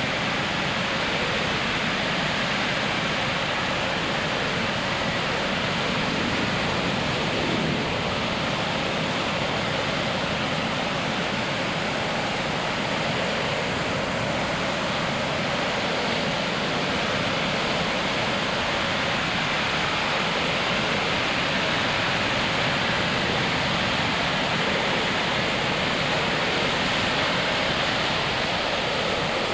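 Ocean surf breaking on a sandy beach, a steady continuous wash of waves with no distinct individual crashes.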